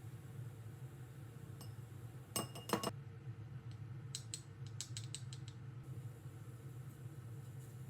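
Objects being handled: a few sharp clicks about two and a half seconds in, then a quick run of lighter ticks a little later, over a low steady hum.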